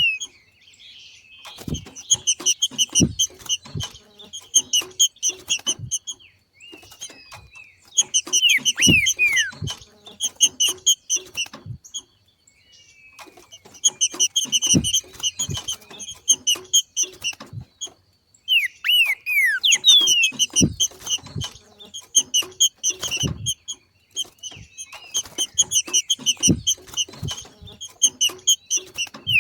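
Green-winged saltator (trinca-ferro) giving its 'macheado' call: about five bouts, each opening with falling whistled slurs and running into a fast chatter of repeated notes, with low thumps through each bout and brief pauses between bouts.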